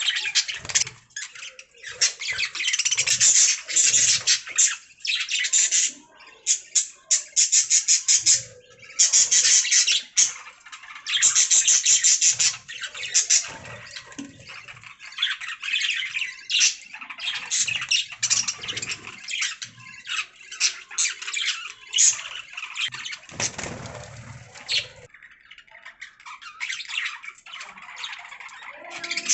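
Budgerigars chirping and warbling in rapid, chattering runs with occasional squawks. The chatter is busiest in the first half and thins out later.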